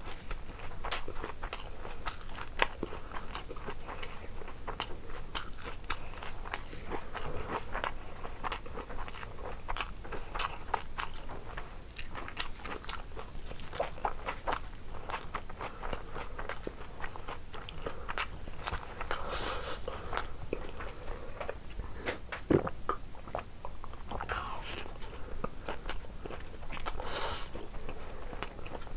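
A person biting and chewing crunchy food close to the microphone: a continuous run of crunches and wet mouth clicks, with a sharper crack about two and a half seconds in and another about twenty-two seconds in.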